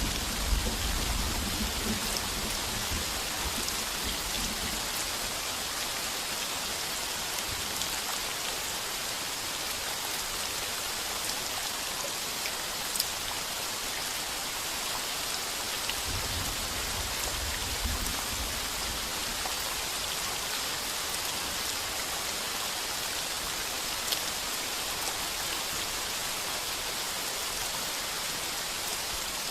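Heavy rain pounding steadily on a tin roof, a dense even hiss with a few sharp drop ticks. A low rumble of thunder fades out in the first couple of seconds, and another faint rumble comes a little past the middle.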